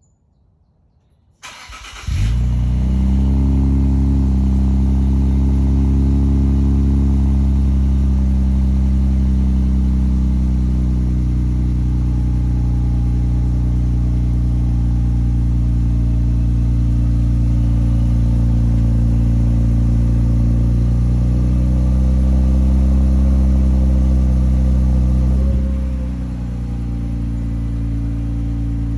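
Infiniti Q50 Red Sport 400's 3.0-litre twin-turbo V6 cold-starting through a cat-back exhaust: it cranks briefly about a second and a half in, catches, and settles into a loud, steady fast idle. About 25 seconds in, the idle steps down, lower and quieter.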